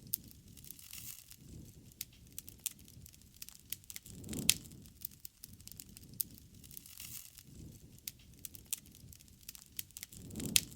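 Wood campfire crackling: irregular sharp pops and snaps over a low rushing sound. The rushing swells twice, about four seconds in and near the end, each time with a loud pop.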